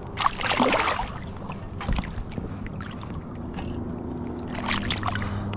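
Water splashing as a hooked smallmouth bass thrashes at the surface, twice in short bursts, with a thump about two seconds in, over running river water and a steady low hum that sets in halfway through.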